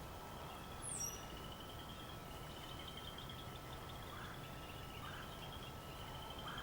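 Outdoor ambience with a small bird's trill repeating over and over and a brief high chirp about a second in. Three short, faint, distant wild turkey calls come in the second half.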